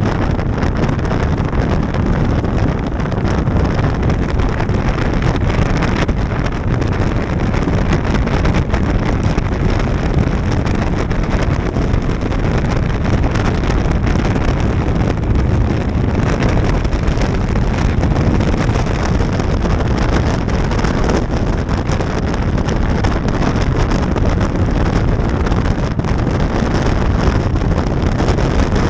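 Steady wind rushing over the microphone of a moving motorcycle, with its engine and road noise running underneath.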